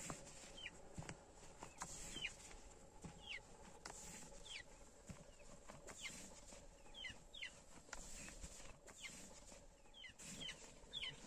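A bird peeping faintly and repeatedly: short high notes that drop in pitch, about one a second, now and then two in quick succession.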